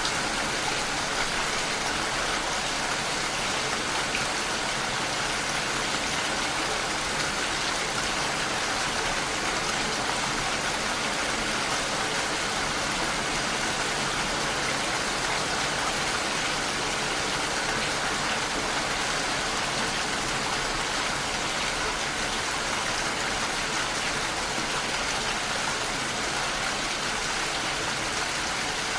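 Steady rain falling against a window, an even hiss that does not let up.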